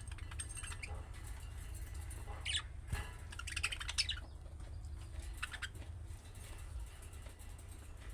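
Budgerigars chirping in a few short bursts, the busiest about three and a half to four seconds in, over a steady low hum.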